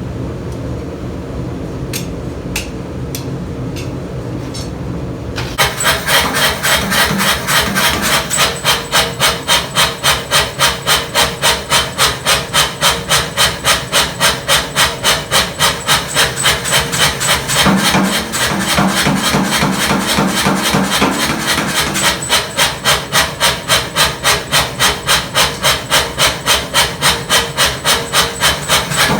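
Power hammer running, then from about five seconds in pounding steadily at about three blows a second as it forges steel.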